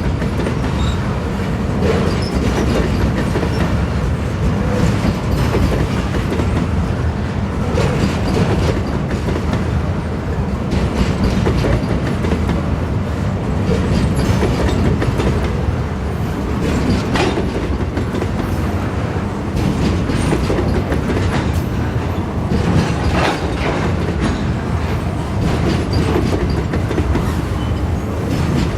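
Wagons of a pulp freight train rolling steadily past, their wheels clacking over the rail joints in a continuous run, with a few brief, faint wheel squeals along the way.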